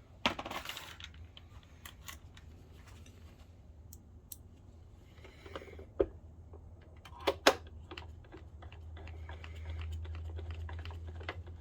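Scattered small clicks and taps of screws and a screwdriver being handled against a plastic projector case, with a few sharper knocks about six and seven and a half seconds in.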